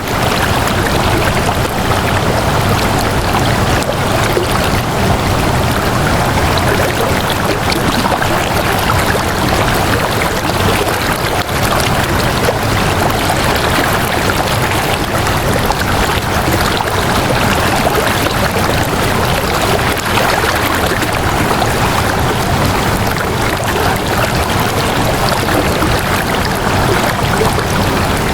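Flowing water rushing steadily, an even, unbroken stream-like wash of sound.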